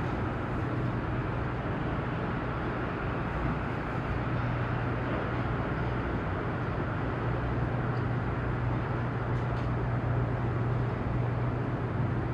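Steady low engine hum of harbour vessels manoeuvring a ship alongside the quay, under a constant broad wash of outdoor noise.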